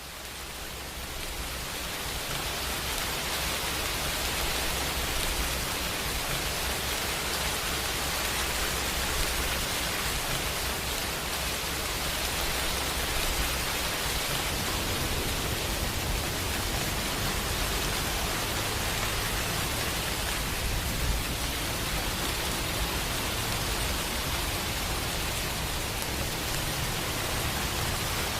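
Steady rain falling, an even hiss of many drops with a low rumble beneath; it fades in from silence over the first few seconds.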